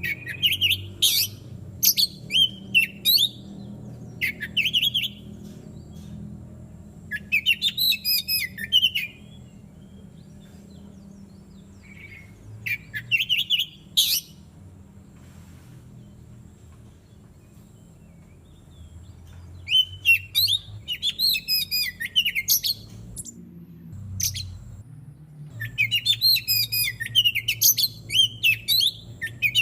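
Oriental magpie-robin (kacer) singing in bursts of quick, varied whistled phrases a few seconds long, with pauses between them, over a low steady hum.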